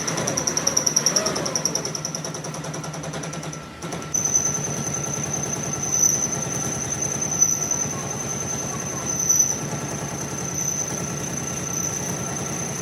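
Workshop metalworking machine running, with a fast, even rhythmic chatter and a steady high whine. The sound breaks off briefly about four seconds in, then carries on.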